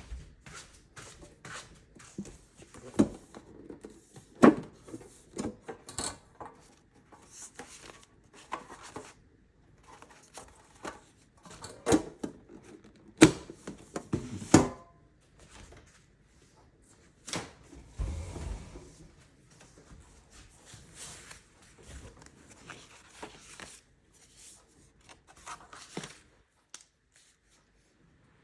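Packing shipping orders: irregular clicks, knocks and rustling as items and packaging are handled, with several louder knocks scattered through.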